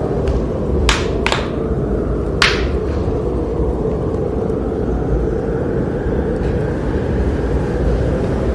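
Wood fire burning in a fireplace: a steady low rumble of the flames with three sharp crackling pops about one, one and a half, and two and a half seconds in.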